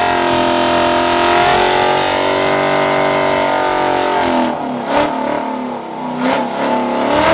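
A car engine revving hard and held at high revs, its pitch sagging and then climbing and falling again, with three sharp cracks in the second half.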